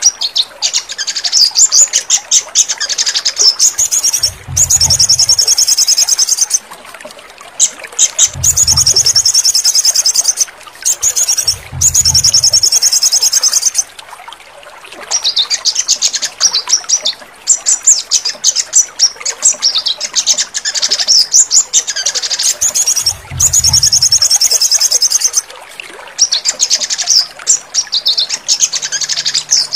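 Sogon (spiderhunter) song: loud, fast, high-pitched trills in repeated bouts of a second or more with short pauses between them, used as a therapy recording to get caged birds singing. A few brief low thumps come at intervals.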